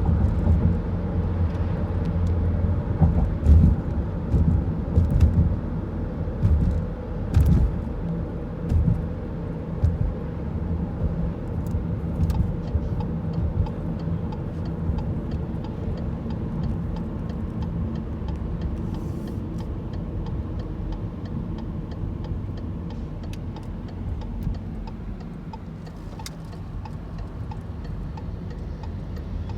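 A motor vehicle's engine running with a low rumble. It is louder and uneven for about the first ten seconds, then steadier, with faint regular ticking over it later on.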